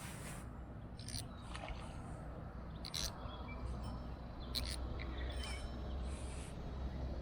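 Outdoor ambience: a few short, sharp bird chirps and calls scattered over a low, steady rumble.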